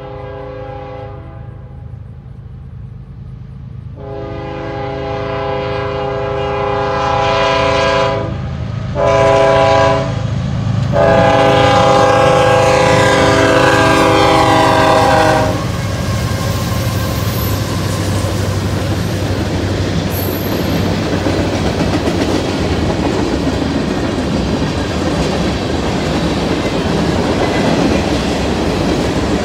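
A Kansas City Southern diesel freight locomotive's air horn sounds the grade-crossing signal as the train nears the crossing: the end of one long blast, then long, short, long. The last blast cuts off after about 15 seconds and the train rolls past with a steady rumble of locomotives and wheels clacking over the rail joints as the hopper cars go by.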